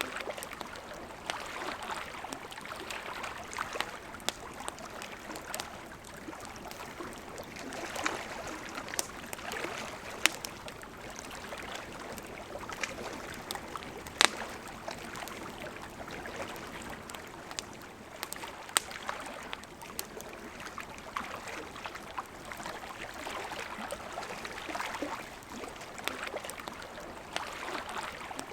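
River water flowing and burbling steadily, with a campfire crackling over it in scattered sharp pops, the loudest about fourteen seconds in.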